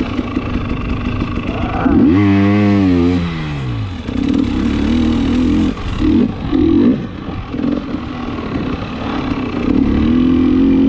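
KTM 300 XC-W TPI single-cylinder two-stroke dirt bike engine under throttle on a sand trail. A loud burst of revs about two seconds in peaks and falls away over about two seconds, then the revs keep rising and falling with the throttle.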